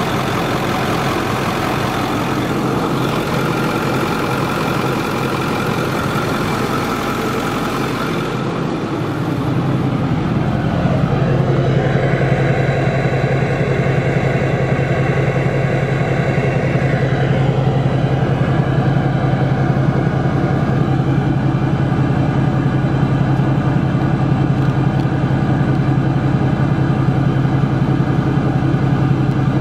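Ford 6.4L Power Stroke V8 turbodiesel running steadily at idle. About ten seconds in the sound turns deeper and a little louder, then holds steady. The owner reports that this engine gurgles in the exhaust, smokes from the oil filler neck and knocks near the right wheel arch.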